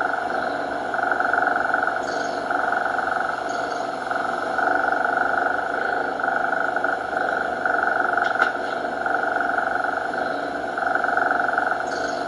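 A cat purring steadily, swelling and easing every second or two with its breaths.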